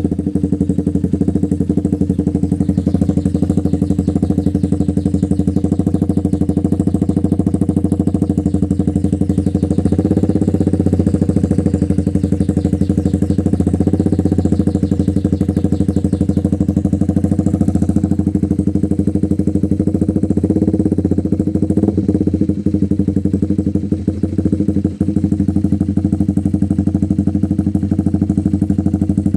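Honda CB150R single-cylinder engine idling through an aftermarket Mafia silencer exhaust with a Proliner header, a steady, even exhaust note that swells slightly a few times midway, just after a cold start.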